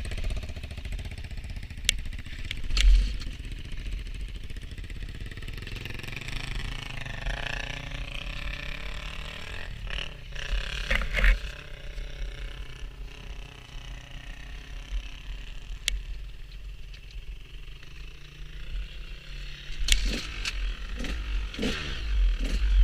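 Motorcycle on the move: the engine runs steadily under heavy wind buffeting on the microphone, and the engine pitch shifts about a third of the way in.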